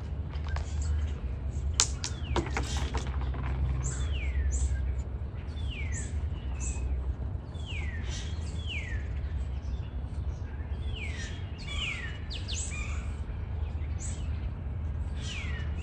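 Wild birdsong: a bird repeating a clear whistled note that slides down in pitch, singly or in pairs every second or two, with short higher chirps from other birds, over a steady low rumble.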